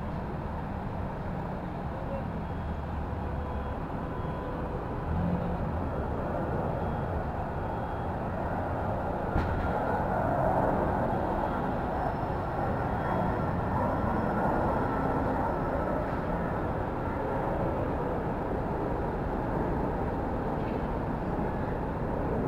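City street traffic: a steady wash of vehicles running and passing, swelling a little about ten seconds in, with one sharp click just before.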